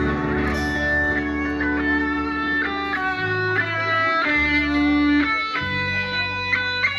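Guitar music playing, a melody of held plucked notes over a bass line.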